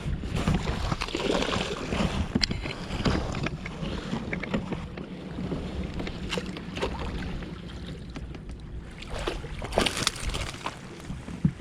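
Wind noise on the microphone and water moving around a fishing kayak, with a couple of light knocks about two and a half seconds in and again near the end.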